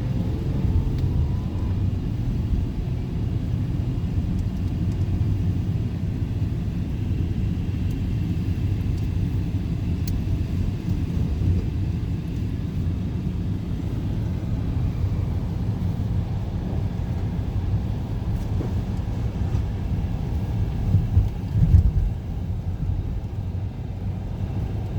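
Steady low rumble of an all-wheel-drive car driving on a road, with a brief louder bump about 21 seconds in.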